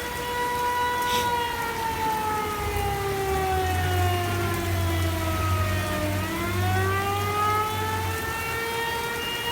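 Outdoor tornado warning siren wailing: a steady tone that slides down in pitch over several seconds, bottoms out about six seconds in, and climbs back up. A low rumble runs underneath from about three to eight seconds in.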